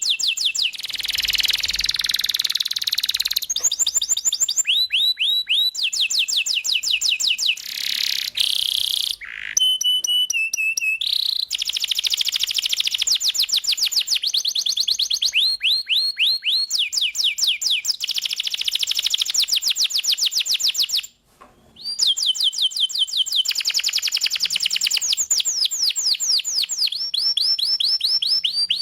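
Domestic canary singing continuously in fast trills of rapidly repeated, sweeping high notes, one roll following another. The song breaks off briefly about two-thirds of the way through.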